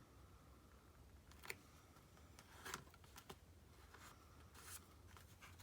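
Near silence with a few faint taps and short rustles of paper crafting at a desk, over a low steady hum.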